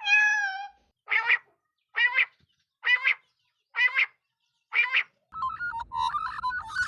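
Bird calls: a long drawn-out call at the start, then five short, harsh calls about a second apart. Near the end a busier jumble of short chirps over a low rumble begins.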